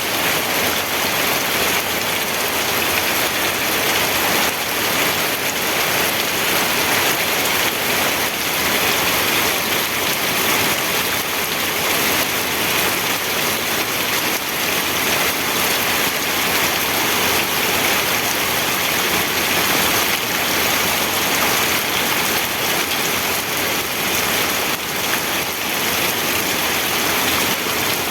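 Steady rainfall, a dense even hiss of drops falling on a surface, with no pauses or distinct impacts.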